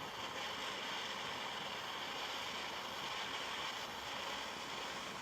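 Heat gun blowing with a steady, even hiss, heating a wire wheel's spokes to loosen the Loctite holding them.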